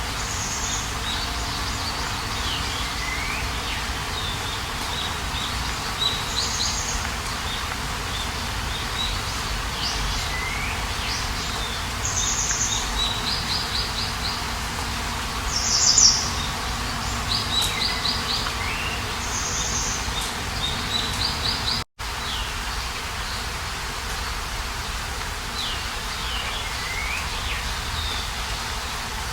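Songbirds singing and calling, with repeated short high phrases and sweeping calls, over a steady rushing background noise. The sound cuts out for an instant about three quarters of the way through.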